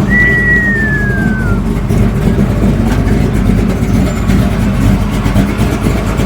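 A car engine running steadily nearby, with one short high tone gliding downward at the very start.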